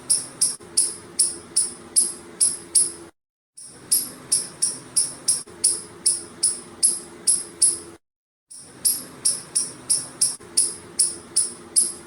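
Squirrel chirping: sharp, high chirps about three a second, in bouts of a few seconds broken by short gaps.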